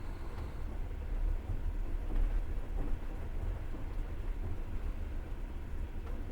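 Passenger train running on the rails, heard from inside the carriage as a steady low rumble of the wheels and running gear.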